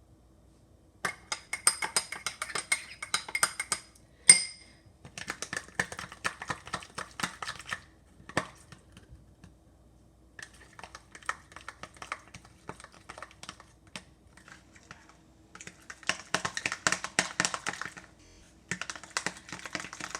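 Homemade soap slime being squished and kneaded by hand: wet, crackly clicking in bursts of a few seconds with short pauses between. About four seconds in there is one sharper tap with a brief ring.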